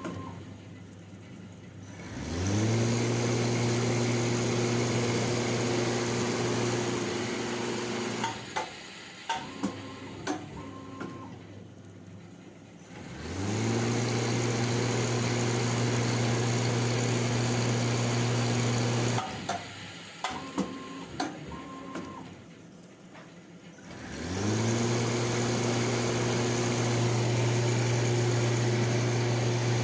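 CNC coil winding machine winding aluminium wire onto ceiling fan stator coils. Three times, its spindle motor spins up with a rising hum, runs steadily for about six seconds, then stops. Between runs come bursts of clicks and short high beeps.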